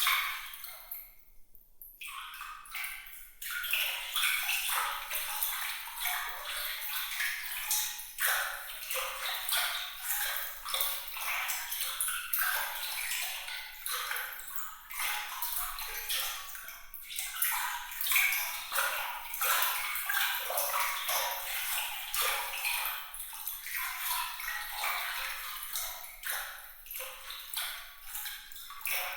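Water trickling and splashing, with many small bright droplet plinks over a steady high-pitched hiss. It briefly drops away about a second in, then carries on.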